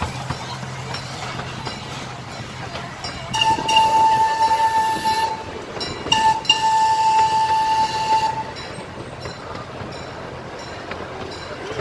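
The miniature park train's locomotive sounds its whistle twice, a short blast and then a longer one at the same steady pitch, over the steady running noise of the train on the track.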